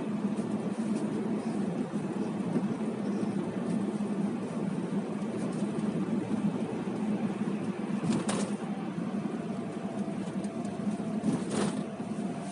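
Steady low hum inside a car cabin with the engine running, with two short clicks about eight and eleven and a half seconds in.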